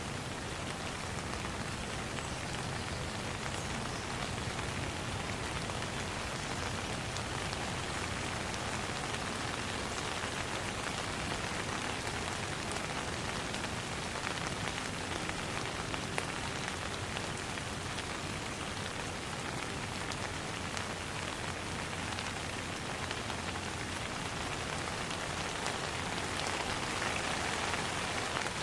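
Steady rain falling on a pond: an even hiss with scattered drop ticks.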